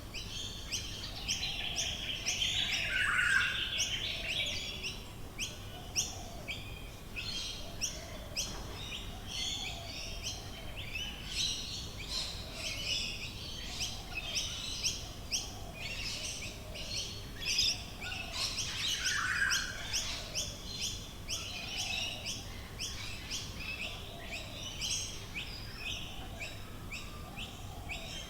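Chorus of many Australian bush birds, with a dense run of rapid chirps and trills. Under it, a lower call repeats about every second and a half.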